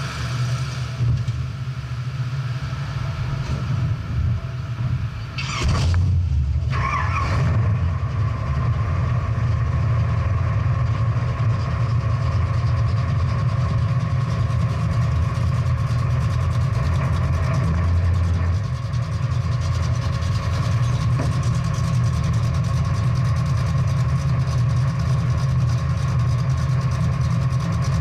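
Big-block V8 muscle car engine running with a deep, steady low rumble, a little louder from about six seconds in.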